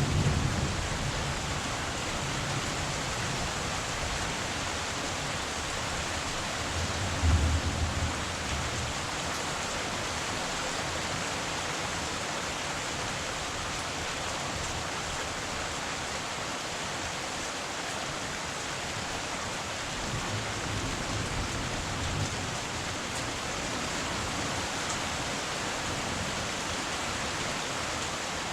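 Heavy rain falling steadily, an even hiss. There is a low rumble near the start, a brief louder one about seven seconds in, and a fainter one later.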